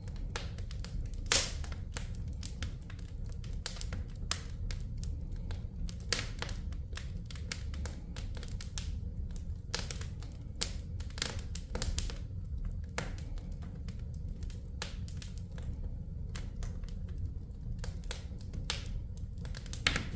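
Wood fire burning in a fireplace, crackling with irregular sharp pops and snaps of varying loudness over a steady low rumble.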